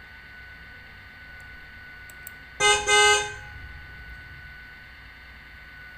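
Car horn honking twice in quick succession, a short toot then a longer one, about two and a half seconds in, over a faint steady hum.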